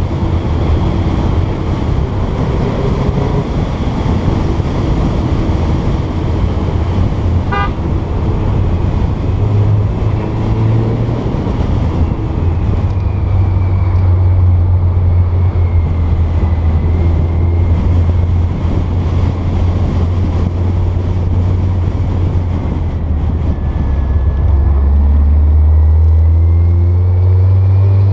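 Porsche 912's air-cooled flat-four engine running steadily under way, with road noise; the engine note shifts in pitch near the end as the revs change.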